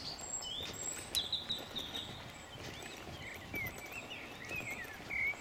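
A songbird singing a long, varied phrase of quick sliding notes that rise and fall, with a few sharp clicks and a low, steady outdoor rumble underneath.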